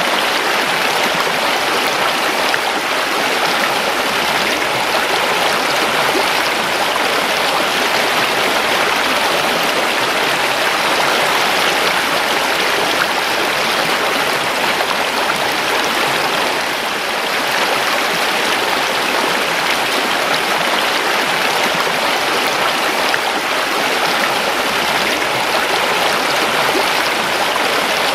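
Creek water rushing over rocks in a steady, continuous flow.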